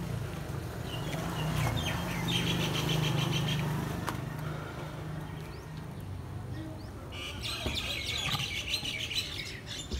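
Small birds chirping in quick trains of calls, in two spells, one about two seconds in and another about seven seconds in, over a low steady hum.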